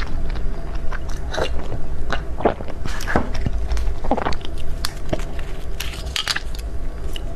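Close-up eating sounds of a person biting and chewing desserts: irregular wet smacks and crunchy clicks with no talking.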